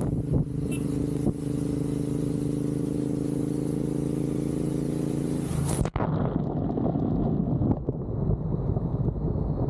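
Motorcycle engine running at a steady pace, with wind rumble on the microphone. About six seconds in there is a rising whoosh and a sudden cut, after which mostly wind rumble and road noise remain.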